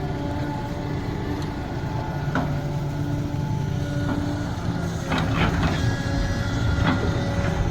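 Sumitomo SH370LHD-6 excavator's diesel engine running steadily, with a few sharp knocks, the loudest pair about five seconds in.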